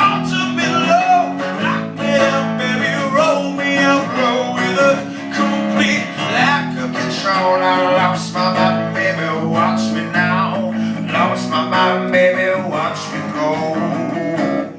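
Acoustic guitars strumming in a band's live acoustic performance, with steady chords and quick picked runs through the song's wordless closing section.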